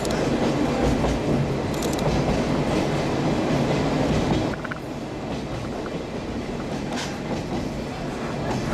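Sagano Scenic Railway sightseeing train running along the track, a steady rumble with a few sharp wheel clicks over the rail joints. The rumble drops in level about four and a half seconds in.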